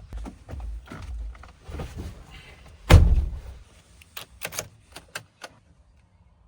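A run of knocks and thuds over a low rumble, with one loud heavy thump about three seconds in, followed by a few sharp clicks before it goes quiet.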